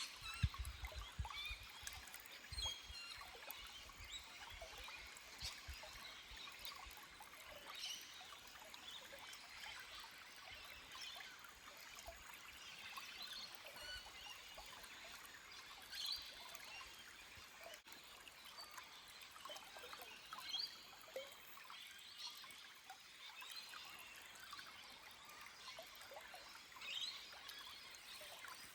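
Small forest stream trickling and splashing over rocks, with scattered short bird chirps throughout. A few low thuds come in the first few seconds.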